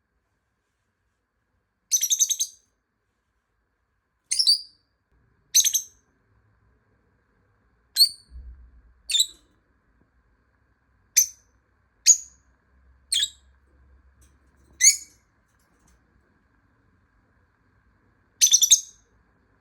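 Lovebird giving shrill, high-pitched calls, single sharp chirps every one to three seconds with silence between, plus two longer rapid chattering bursts: one about two seconds in and one near the end.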